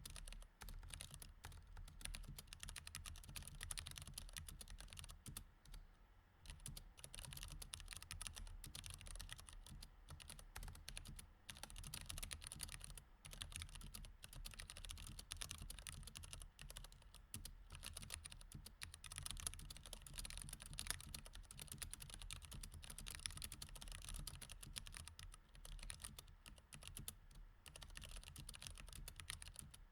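Continuous typing on a mechanical keyboard with Cherry MX Red switches: a soft, dense clatter of keystrokes, with a brief lull about six seconds in.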